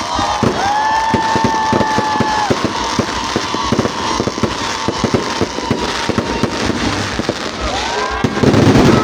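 Fireworks going off in a rapid, dense run of sharp pops and crackles, with a louder burst near the end.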